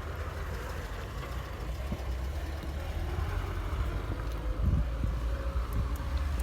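Steady low rumble of a car running, with a couple of short dull thumps about three-quarters of the way through.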